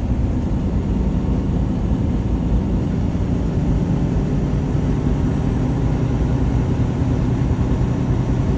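Semi truck engine running steadily with road noise: a loud, even, low drone.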